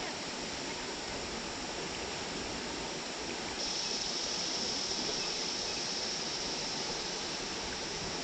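Steady rushing of flowing river water. About a third of the way in, a higher hiss joins abruptly and then holds steady.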